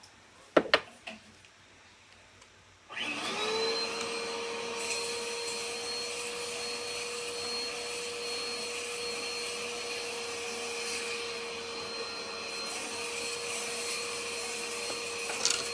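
Hoover vacuum cleaner switched on about three seconds in, its motor spinning up quickly to a steady whine and then running evenly. Two sharp knocks come shortly before it starts.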